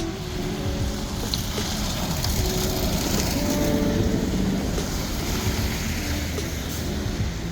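Road traffic noise: a steady low rumble and hiss that swells for a few seconds around the middle as a vehicle passes.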